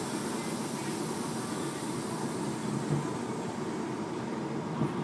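Heavy truck engine running steadily with a continuous low rumble.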